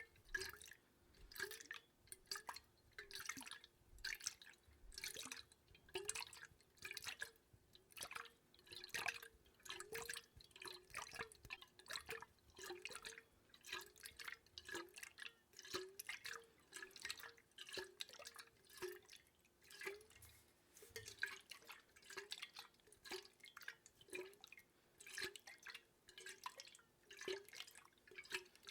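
Water dripping into water: a steady, quiet run of single drops, about one or two a second, each a short plink that rises in pitch.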